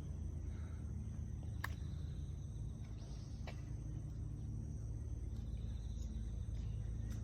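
Outdoor background: a steady high insect trill over a low constant rumble, with a couple of faint clicks.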